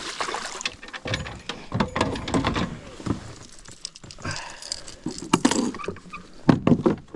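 Irregular knocks, clicks and rattles of fishing gear being handled aboard a kayak.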